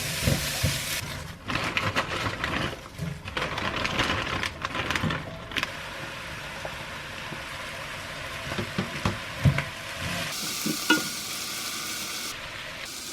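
Noodles and chopped vegetables sizzling in a pan as they are stir-fried, with a utensil clicking and scraping against the pan at irregular moments.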